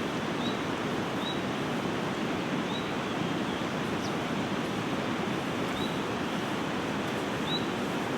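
Steady rushing of a mountain river, with faint short high chirps recurring about once a second.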